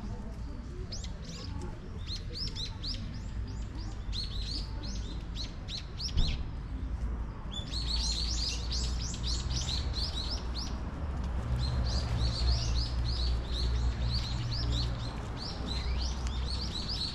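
Small birds chirping in quick runs of short, high notes that break off for about half a second near the middle, over a steady low rumble.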